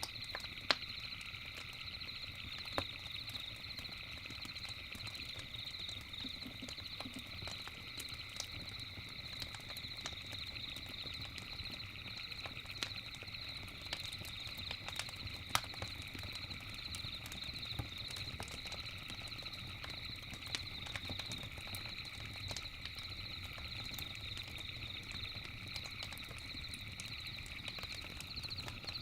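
Campfire crackling with scattered sharp pops, over a steady, high-pitched, trilling chorus of night insects and a low rumble.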